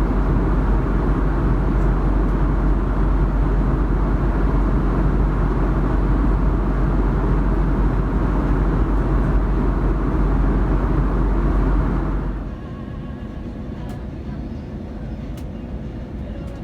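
Loud steady cabin noise of an Airbus A340-600 in flight: deep engine and airflow rumble. About twelve seconds in it drops suddenly to a much quieter steady hum with a few faint clicks.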